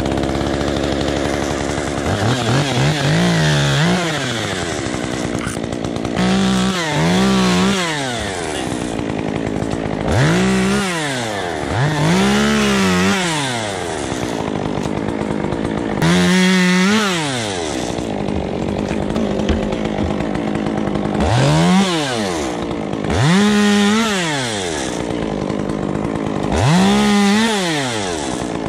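Two-stroke chainsaw idling and being throttled up and back down about nine times, its pitch rising and falling with each burst.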